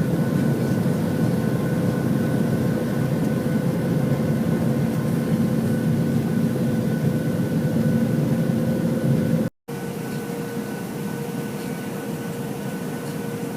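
Jet airliner cabin noise: a steady engine drone and air rush with a constant hum. It cuts off briefly a little over nine seconds in and resumes slightly quieter.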